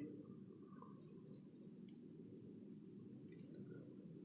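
Faint, steady high-pitched chirring of crickets over low background noise, with a couple of faint ticks.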